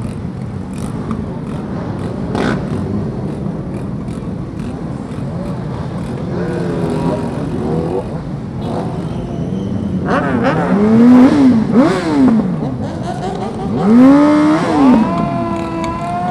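Motorcycle engines running in traffic, with two loud revs about ten and fourteen seconds in, each rising and falling quickly in pitch.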